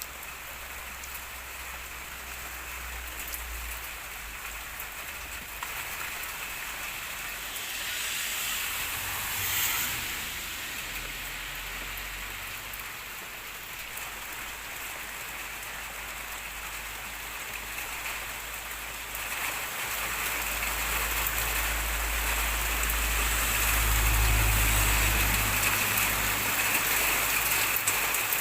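Heavy rain pouring down in a steady, dense hiss. A low rumble grows louder in the second half.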